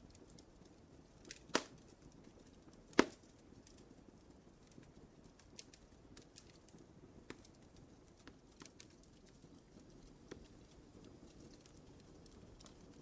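Wood fire burning in a fireplace: a faint low roar with scattered crackles, and two loud sharp pops about a second and a half apart near the start.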